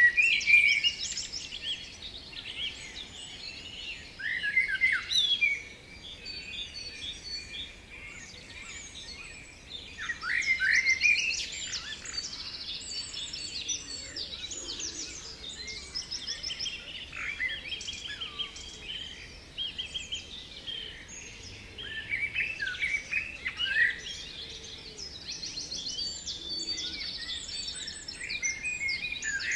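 Songbirds singing, several at once: a dense mix of chirps, trills and sliding whistled notes, with a few louder phrases standing out now and then.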